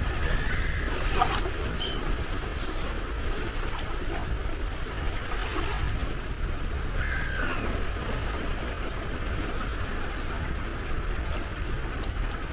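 Sea waves washing against the shore with a steady low rumble. A gull calls briefly about a second in and again about seven seconds in.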